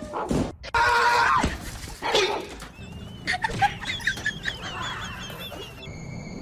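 Animal calls: a few loud pitched cries in the first two seconds, then a high wavering call lasting a few seconds.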